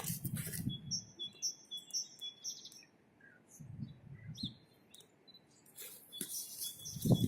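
A small bird chirping: a quick run of short, high, repeated chirps from about a second in until nearly three seconds, with a few fainter chirps later.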